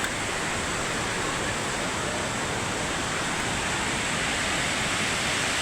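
Steady rushing of water falling at Victoria Falls, an even hiss with no breaks or changes.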